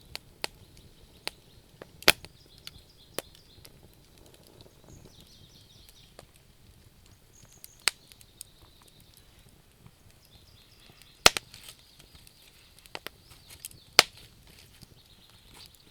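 Wood fire crackling, with irregular sharp pops from the burning logs; the loudest snaps come about two seconds in and twice near the end. Crickets chirp faintly in the background.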